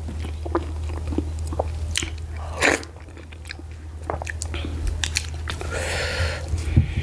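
Close-miked mouth sounds of someone chewing garri fufu with slimy ogbono soup: wet smacks and clicks of lips and tongue, one louder smack about a third of the way in. Near the end, a brief soft tearing as fingers pinch off a piece of the fufu, over a steady low hum.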